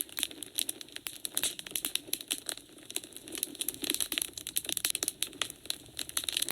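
Wood fire in a fireplace crackling, with many sharp irregular pops and snaps over a soft hiss of burning.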